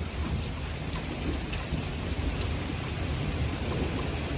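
Heavy rain falling steadily in a thunderstorm, an even hiss with scattered drop hits and a low rumble underneath.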